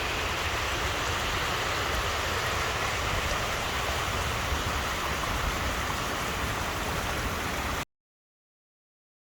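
Steady rush of running water, a stream or waterfall, with a low rumble underneath; it cuts off suddenly near the end.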